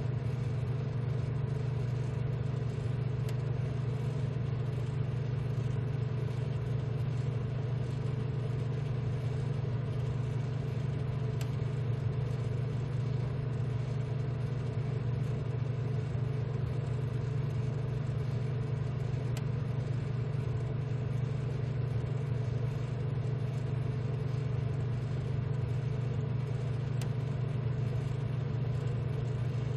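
BGA rework station running with a steady low hum, with a faint tick about every eight seconds.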